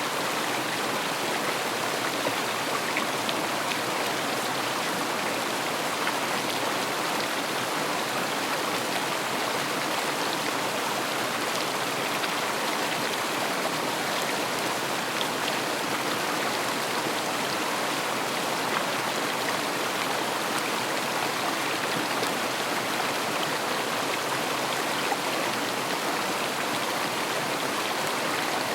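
River water flowing and splashing in a steady rush, with fine droplet-like crackle over it.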